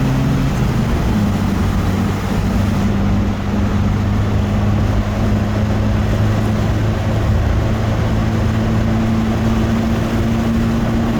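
Paykan's 1725 cc four-cylinder engine pulling hard under full acceleration. Its pitch drops at an upshift about a second in, then climbs slowly as the car gains speed in the higher gear.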